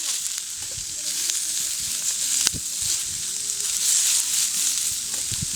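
Food sizzling in a pan over a campfire: a steady high hiss, with a sharp pop about two and a half seconds in.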